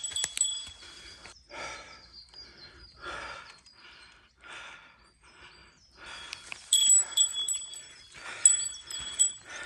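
A small metal bell jingling in short bursts, briefly at the start and again through the last three seconds.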